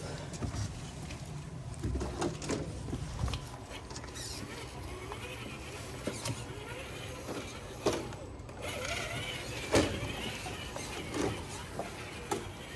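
Traxxas TRX-4 RC rock crawler's small electric motor and gearbox whirring as it crawls over rocks, with several sharp clicks and knocks of the truck against the rock.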